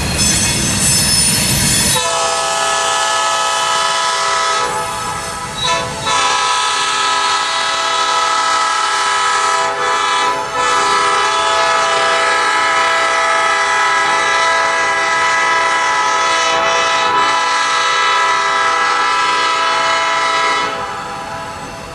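Train rolling noise for about two seconds, then a locomotive's five-chime air horn (Nathan P5 on a CN/IC GP38-2) sounding one long blast of about nineteen seconds, dipping briefly twice before it cuts off near the end.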